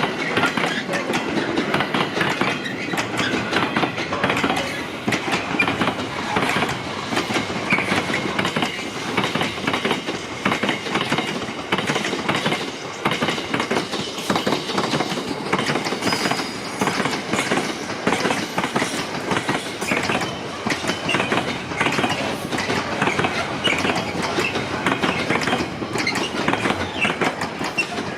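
A train rolling past, its wheels clattering over the rail joints without a break.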